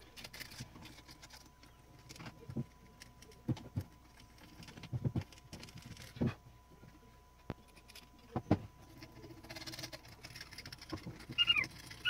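Scattered knocks and clicks of parts and tools being handled on a workbench during typewriter repair, irregular and a second or two apart. Near the end come a couple of short, high, falling chirps.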